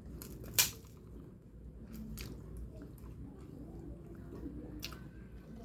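Close-miked eating: chewing and biting on a mouthful of egg noodles and rice, with a sharp click about half a second in, the loudest sound, and a few softer clicks later.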